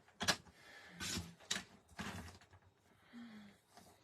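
Cardstock being cut into a thin strip and handled: a sharp click just after the start, then a few short rustling swipes of paper.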